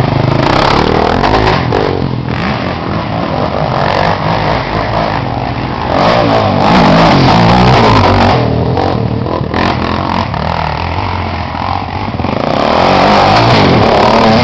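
Motocross motorcycle engines revving hard and easing off in turn, the pitch rising and falling over and over. Loudest about six seconds in and again near the end.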